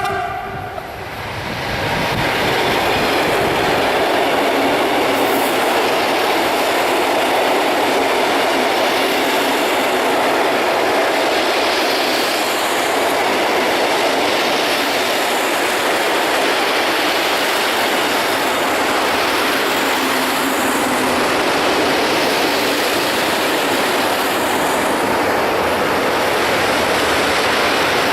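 Freight train passing close by: a loud, steady rushing of wagon wheels rolling on the rails, after a brief dip in level about a second in.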